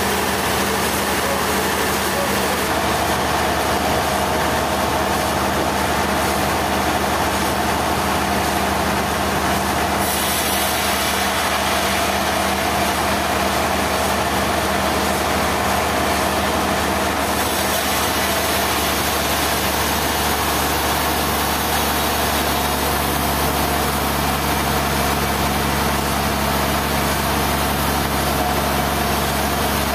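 Sawmill machinery running steadily: a continuous engine or motor drone under a loud hiss, with the high part of the hiss changing a few times.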